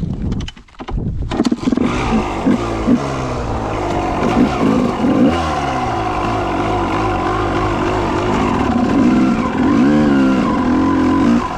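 Dirt bike engine running and revving up and down repeatedly, coming in loud about a second in.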